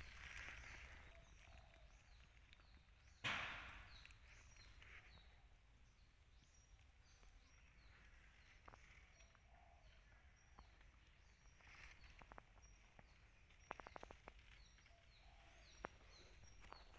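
Near silence outdoors, with a bird chirping faintly in the background, short high notes repeated about twice a second. About three seconds in comes a brief crunch of dry leaves, and a few faint ticks follow later.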